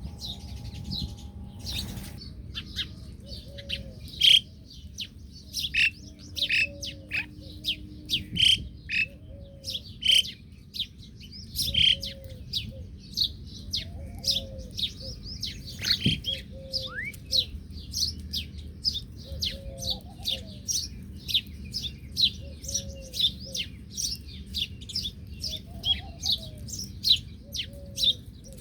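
A flock of small birds chirping, with many short high chirps that grow into rapid, continuous chattering in the second half. A lower, arched call repeats every couple of seconds underneath.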